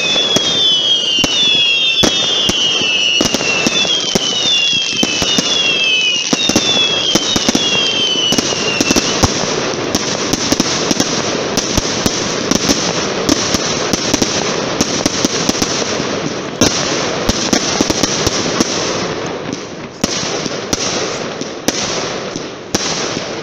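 Fireworks going off: a run of falling whistles, about one a second, over the first nine seconds or so, amid dense crackling and many sharp bangs. The bangs thin out and the sound drops near the end.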